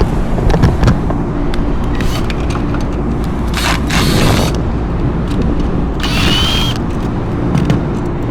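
Short metallic clicks and scraping bursts of hand work on an exhaust fan's motor assembly, one with a brief rising squeak about six seconds in, over a steady low rumble.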